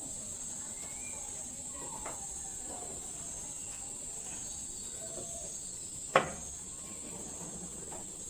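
Steady high-pitched drone of crickets or other insects, with one sharp click or knock about six seconds in.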